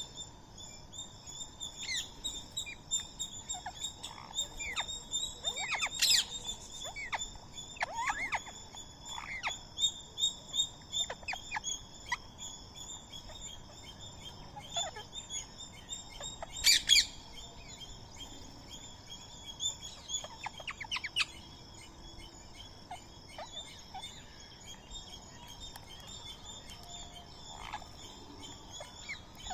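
Birds, Indian ringneck parrots among them, chirping and calling with many short calls, and two loud sharp screeches about six seconds in and again near seventeen seconds. A steady high-pitched drone runs underneath.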